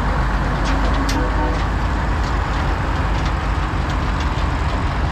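Steady low rumble of a running vehicle, with a few faint light ticks over it.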